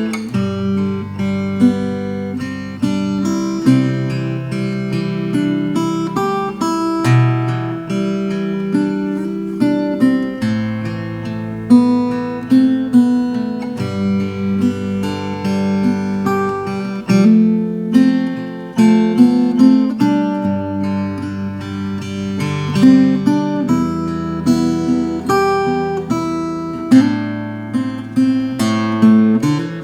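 Veelah Mini Camper R mini acoustic guitar played solo: a melody of plucked notes over held bass notes, recorded live without sound editing.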